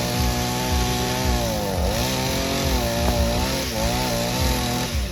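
Chainsaw engine running at high revs through a cut. Its pitch sags several times as the chain is loaded in the wood, then it cuts off at the very end.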